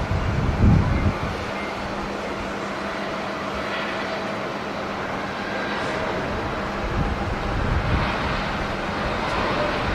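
Airliner jet engine noise, a steady broad roar, with strong wind gusts buffeting the microphone in low rumbles just after the start and again in the second half.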